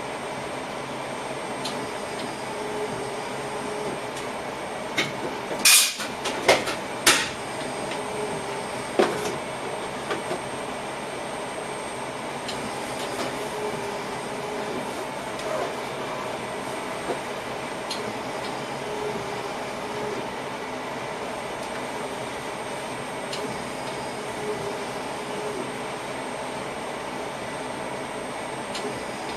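Passenger train running, heard from inside the driver's cab: a steady running noise with a faint held hum. About six seconds in comes a quick cluster of sharp loud clacks, with a few lighter ones around nine to ten seconds.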